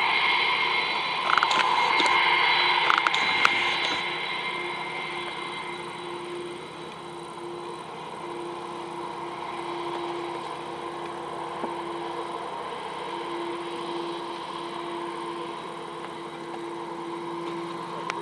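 Airbus A330-300 airliner's jet engines: a rushing roar with a high fan whine, loudest for the first few seconds and then fading to a lower steady rumble as the aircraft moves away. A few short clicks sound early on.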